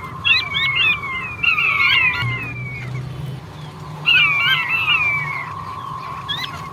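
Male king quail (puyuh batu) calling: quick runs of short, falling whistled notes, then a pause of about two seconds and another run, with a lone note near the end.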